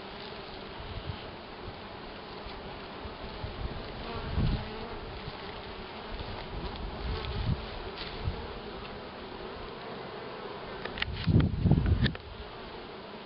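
Honeybees buzzing steadily around the hive. Dull low thumps come about four seconds in and again, louder, near the end.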